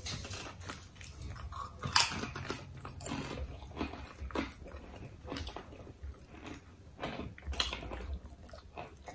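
Close-up chewing of a mouthful of sub sandwich: irregular wet mouth smacks and small clicks, with two louder ones, about two seconds in and again around seven and a half seconds in.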